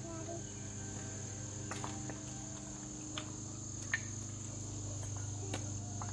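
Steady, unbroken high-pitched drone of a late-summer insect chorus, with a few faint clicks about two, three, four and five and a half seconds in.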